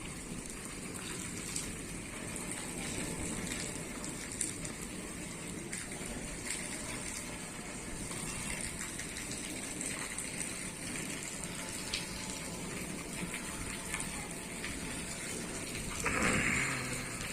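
Rainwater: a steady rush of running water with scattered small drips, swelling briefly a little before the end.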